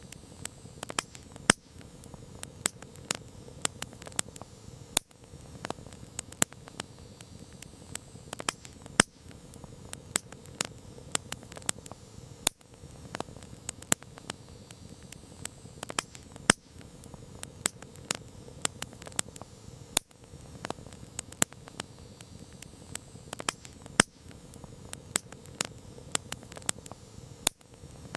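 Wood campfire crackling: irregular sharp pops and snaps, a few louder than the rest, over a soft steady hiss of burning.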